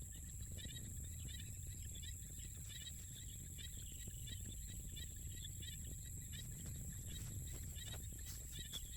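Outdoor field ambience: clusters of short, high chirping calls from small animals repeat every half second or so over a steady low rumble of wind.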